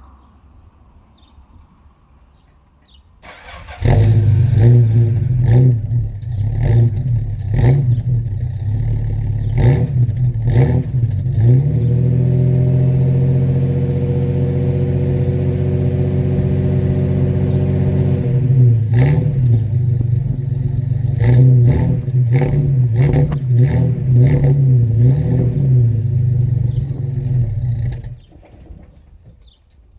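Chrysler Hemi 265 straight-six engine of a Valiant CL Charger starting about three and a half seconds in and running unevenly, surging and stumbling, with a steadier stretch at higher revs in the middle, then dying near the end. The stalling and stumbling come from a fuel blockage, which the owner names as the fault once it is running well.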